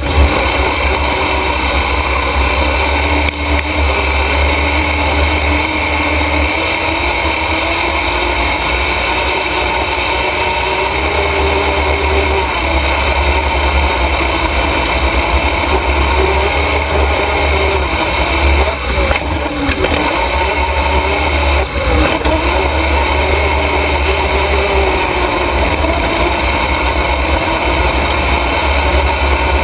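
Race truck's motor running steadily on track, its pitch rising and falling a little, over a heavy low rumble.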